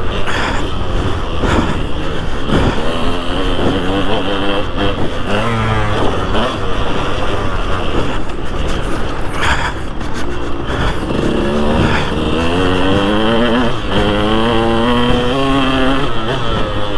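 2003 KTM 200 SX single-cylinder two-stroke motocross engine being ridden hard, revving up and dropping off again and again, its pitch climbing with each burst of throttle.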